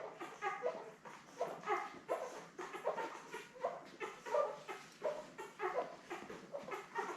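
Ten-day-old Labrador retriever puppies whimpering and squealing, several short cries a second, while they jostle for teats during nursing.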